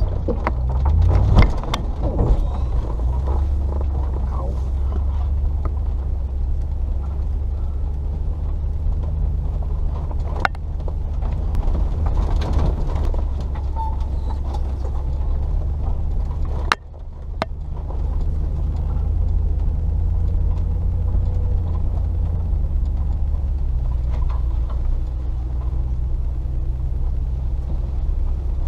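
Range Rover P38's 4.0-litre V8 running steadily at low revs while the vehicle drives slowly along a rough track, with scattered knocks and clicks from the body and a sharp knock just over halfway through.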